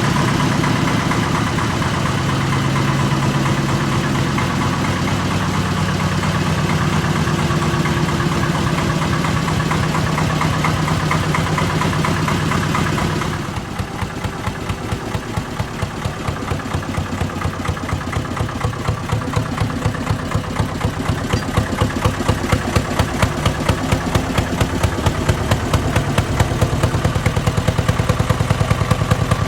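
1956 Allgaier AP22 Porsche-Diesel tractor's two-cylinder air-cooled diesel engine running. About halfway through the sound drops suddenly and the separate firing beats come through, growing louder toward the end.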